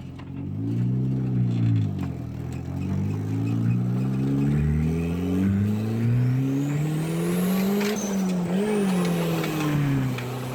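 Turbocharged Honda CRX engine under acceleration: a short rev up and down, then a long pull with the engine note climbing steadily for about six seconds, a high whistle rising along with it, before the revs fall away near the end.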